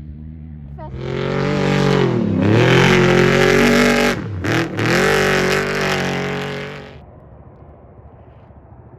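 A racing vehicle's engine running hard and loud, its pitch dipping twice as the revs drop and climb again. It cuts off abruptly about seven seconds in, leaving only a low background hiss.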